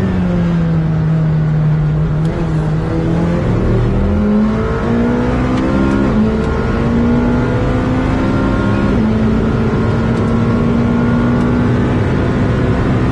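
Supercar engine under hard acceleration, its pitch climbing through the gears, with upshift drops about six and nine seconds in.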